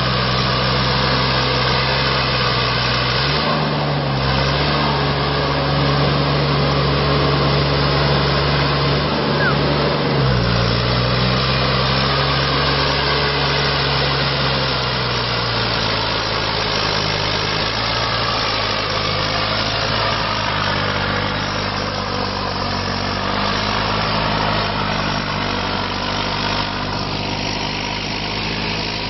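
New Holland 65-56 tractor's diesel engine running steadily, its pitch dipping briefly twice and then settling lower about halfway through.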